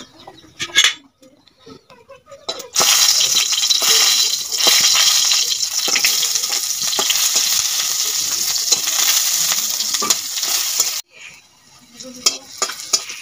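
Garlic cloves sizzling in hot oil in a steel wok. The sizzle starts suddenly about three seconds in as the cloves go into the pan and cuts off near the end, followed by a metal spatula clinking against the wok.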